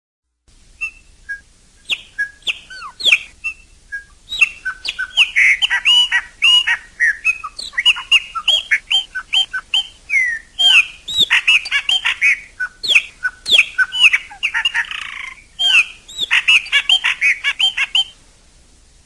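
Chopi blackbird singing a fast run of loud whistled notes and slurred chirps. The notes start sparse, come thick and continuous after about four seconds, and stop about a second before the end.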